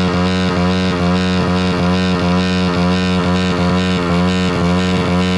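Small single-cylinder pit bike engine running steadily at high revs as it is run to destruction, with a slight regular waver in its note.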